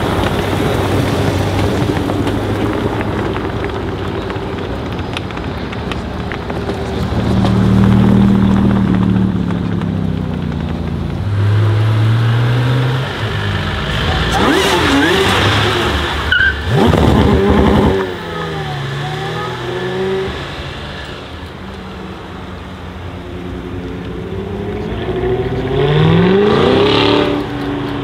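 Sports car engines running and accelerating: the Eadon Green Zeclat's 6.2-litre Chevrolet LT1 V8 moving off at low revs, another car revving hard around the middle, then the V8 accelerating with rising revs near the end.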